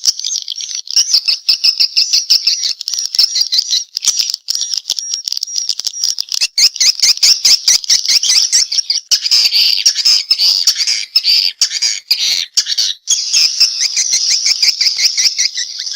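Swiftlets calling: a dense, continuous chittering of rapid high chirps and clicks, of the 'respon' kind of swiftlet call played in swiftlet houses to draw the birds in.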